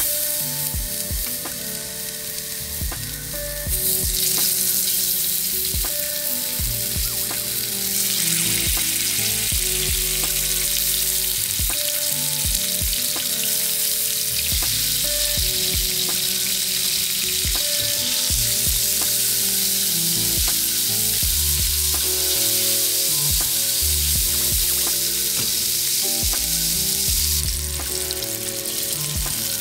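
Salmon cubes sizzling as they fry in hot olive oil in a nonstick pan; the sizzle grows louder about four and again eight seconds in and eases a little near the end. Soft background music runs underneath.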